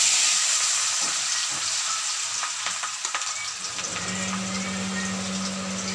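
Sliced potatoes sizzling loudly as they hit hot oil in an iron kadai, with scattered pops, the sizzle easing slowly into steady deep-frying. A steady low hum joins about four seconds in.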